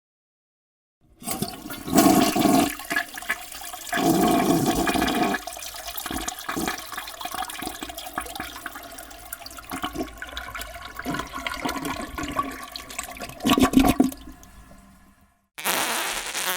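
A long comic fart sound effect with a rushing, noisy texture. It is loudest about two, four and thirteen seconds in, then fades away.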